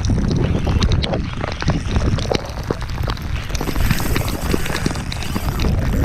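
Wind buffeting a chest-mounted action camera's microphone in rain, a loud steady low rumble scattered with many sharp little taps.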